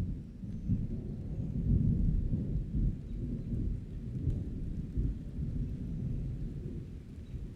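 Rolling thunder rumbling through a summer rainstorm, a long deep roll that swells about two seconds in and slowly eases, with rain behind it.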